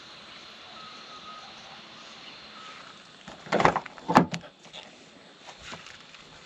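Two loud knocks or scrapes of objects being handled, about half a second apart, a little over halfway through, with a weaker one near the end, over a steady background hiss.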